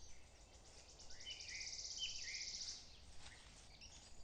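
Songbirds singing in woodland: a fast, high trill from about a second in, with short falling whistled notes below it.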